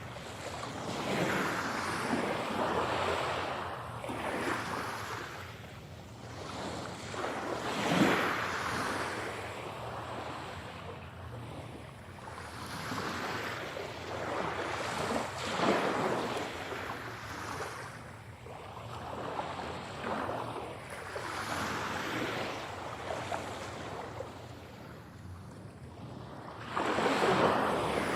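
Sea waves breaking and washing on a shore, a rolling hiss that swells and ebbs every few seconds, with the strongest surges about a third of the way in, past the middle and near the end.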